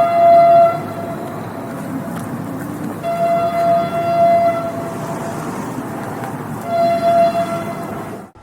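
Train horn sounding three times over the steady rumble of the moving train: one blast ends just under a second in, a longer one comes about three seconds in, and a short one near seven seconds.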